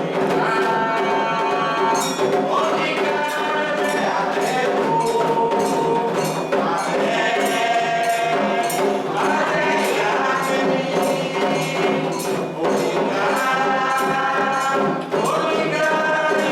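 Candomblé chant for Xangô, sung with long held notes over a steady percussion rhythm.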